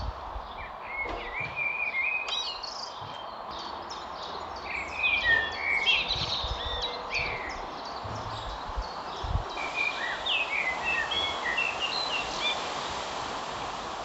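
Small birds chirping and singing in short bursts, the busiest stretches a second in, around the middle and after about ten seconds, over a steady background noise with a few low thuds.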